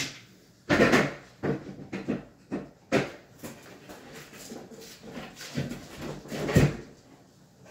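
Wooden knocks and bumps from handling and fitting kitchen cabinets: three loud thuds, about a second in, near the middle and near the end, with lighter clatter between.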